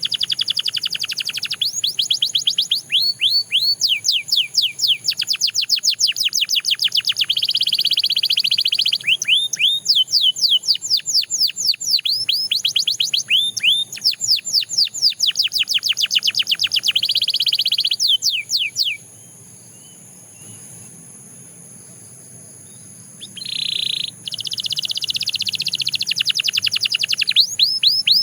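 Canary singing fast trills of rapidly repeated, falling notes alternating with dense rolls. About two-thirds through, the song stops for roughly four seconds, broken by one short buzzy note, then starts again.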